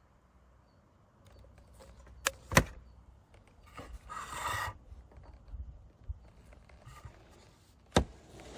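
Hand work on the antenna mount: two sharp knocks in quick succession, a short scraping rush, then one more sharp knock near the end.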